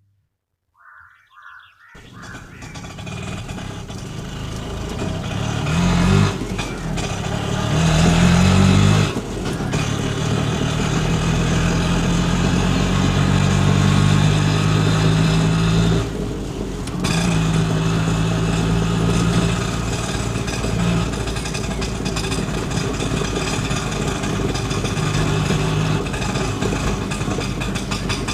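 A vehicle engine starts up after a couple of seconds and then runs on steadily, its pitch shifting now and then, with a short dip about sixteen seconds in.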